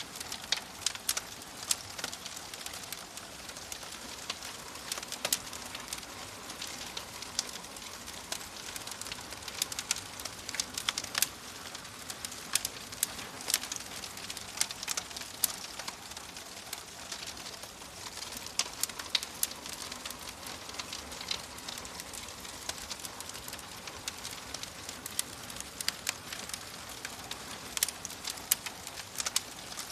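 Wood fire in a fireplace crackling, with a steady hiss and frequent sharp pops and snaps at irregular intervals.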